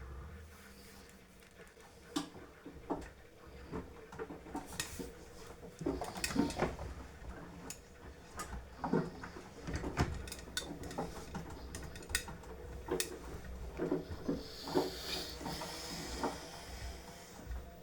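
Beko washing machine running its wash cycle: a steady low hum with irregular clicks and knocks as the drum turns the load.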